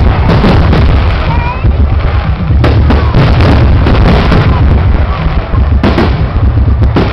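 A dense, loud barrage of aerial firework shells bursting in quick succession, with crackling over a continuous low rumble of booms.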